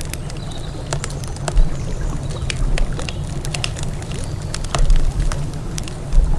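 Wood fire crackling, with irregular sharp pops and snaps and a couple of louder ones, over a steady low rumble.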